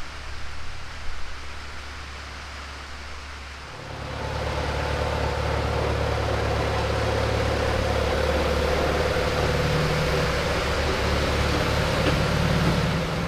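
Tractor engine running steadily. About four seconds in it gets louder, and a steady whine joins the low engine note.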